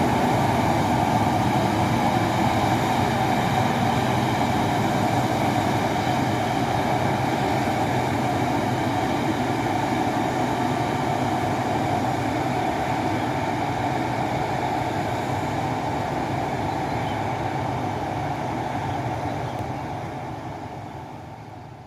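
Loaded dump truck's diesel engine running steadily under load, pulling a load of rock up an incline, fading out near the end.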